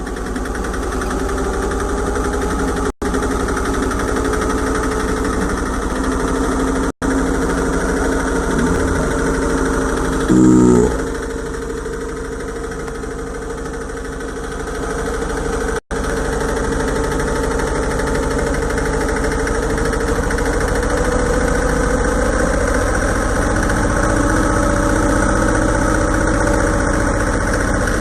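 Yamaha Libero motorcycle's single-cylinder four-stroke engine running steadily at idle, its pitch rising gently about halfway through. A short loud beep sounds about ten seconds in, and the sound drops out three times for an instant.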